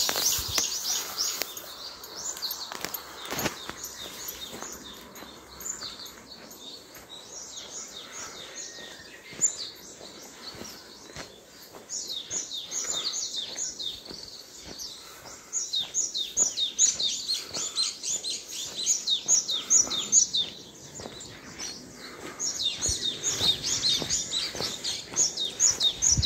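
Small songbirds chirping in fast runs of short, high, descending notes, coming in bursts that thicken several times.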